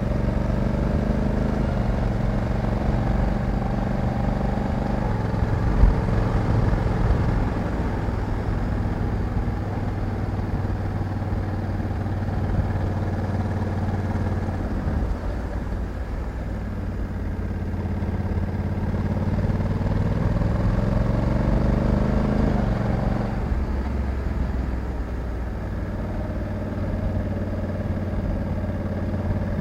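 Honda Africa Twin 1100 DCT's parallel-twin engine running under way, its pitch easing off and then climbing steadily as the bike accelerates, with a sudden drop in pitch about three quarters through as the gearbox shifts up. A single short knock is heard about six seconds in.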